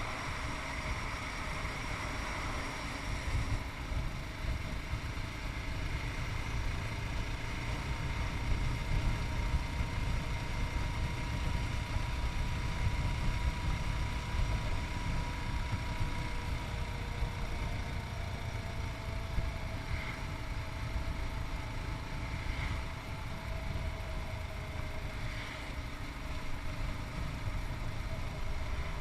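Yamaha MT-03's 660 cc single-cylinder engine running steadily while riding, its note slowly shifting in pitch.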